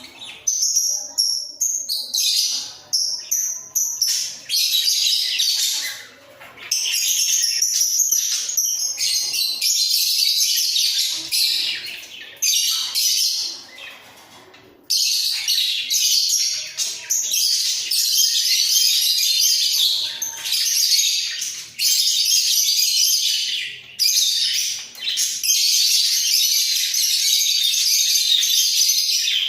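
Budgerigars chattering and warbling, a busy, high-pitched stream of chirps and twitters. Broken into short phrases in the first few seconds, then nearly continuous.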